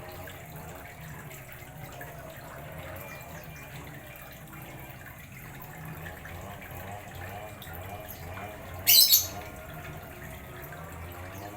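Water trickling and splashing steadily into a fish pond, with one short, loud high-pitched sound about nine seconds in.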